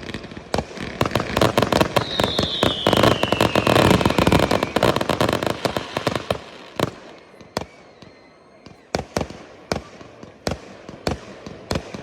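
Display fireworks going off: a rapid barrage of bangs and crackle, densest in the first half, with a whistling firework falling in pitch about two seconds in. The bangs then thin out to single reports every half second or so.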